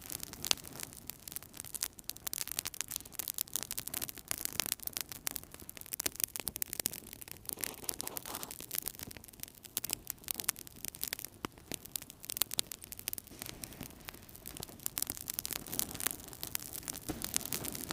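Wood fire burning in a fireplace, crackling constantly with many small sharp pops over a low rumble of flame.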